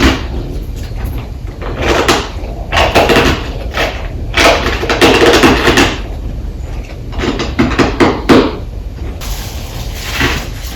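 Close-miked crunching of ice or freezer frost being bitten and chewed, in a series of bursts with the longest run of chewing about halfway through.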